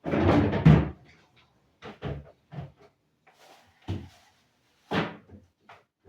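Household clatter and knocks: a loud rattling bang lasting about a second, then four or five lighter separate knocks over the next few seconds, as of a door and things being handled.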